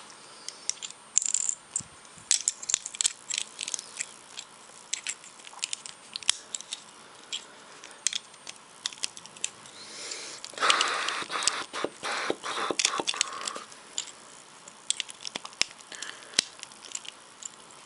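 Plastic LEGO pieces being handled and pressed onto a stack, giving many sharp clicks and taps. Near the middle there is a few seconds of louder rattling and scraping, like loose pieces being sifted through.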